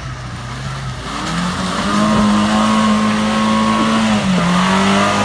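Suzuki Vitara's engine revving up about a second in and held at high revs under load as it drives through mud, with a brief dip in revs near the end.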